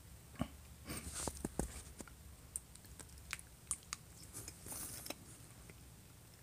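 A person chewing a mouthful of pork and rice close to the microphone: scattered soft mouth clicks and smacks at an irregular pace.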